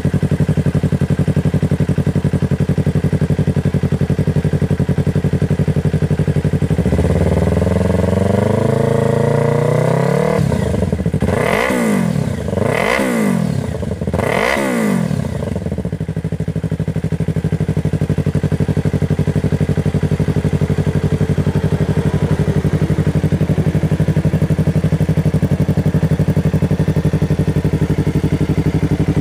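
Yamaha R3 parallel-twin engine idling through its exhaust, then revved up in a rising sweep and blipped three times in quick succession before settling back to a steady idle.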